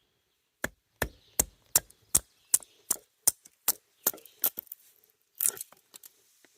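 A fast, even series of sharp chopping or knocking strikes, about a dozen at roughly two and a half a second, then a quick cluster of strikes near the end.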